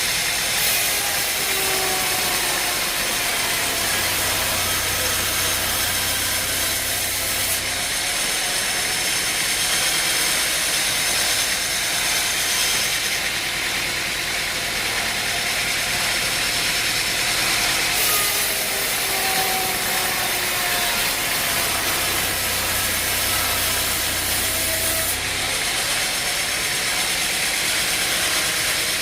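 Engine-driven sawmill machinery running, with a working cycle that repeats about every 17 seconds: each time, a falling whine sweeps down and a low hum comes in for a few seconds.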